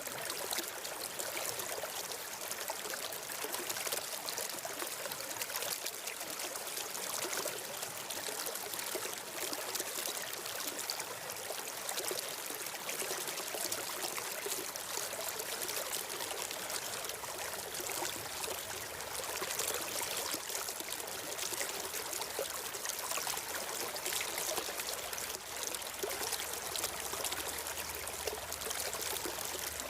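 Steady flowing water of a stream, an even rushing trickle that does not change.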